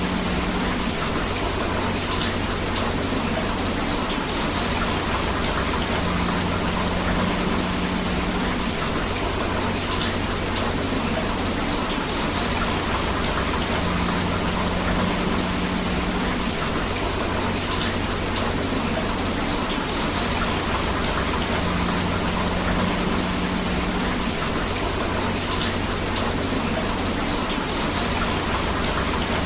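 Steady rain falling alongside a rushing river, a continuous even hiss of water. A faint low tone comes and goes about every eight seconds.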